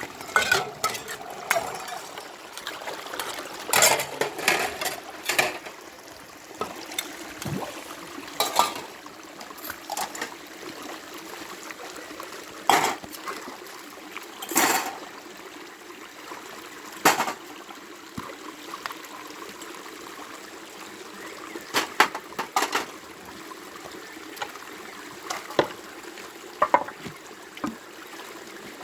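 Rainwater trickling and running steadily, with sharp clinks and clatters at irregular intervals, as of dishes and pots being rinsed in the flowing water.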